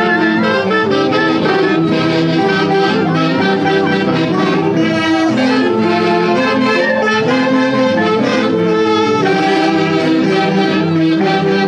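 Orchestra music: a lively tune with saxophones and brass carrying the melody.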